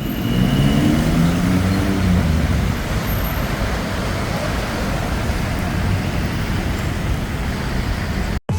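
Road traffic noise under a steady hiss, with one vehicle engine rising in pitch as it accelerates during the first two seconds.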